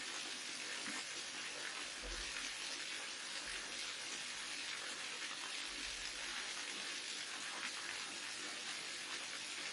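Waterfall: falling water rushing and splashing steadily, with no change in level.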